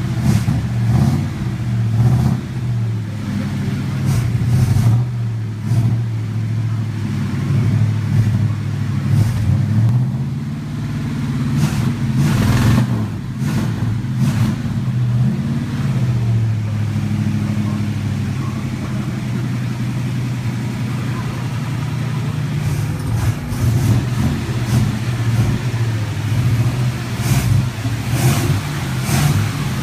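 1964 Oldsmobile Starfire's 394 V8 running after about 30 years of sitting. Its speed rises and falls at times, with a few short clicks over it.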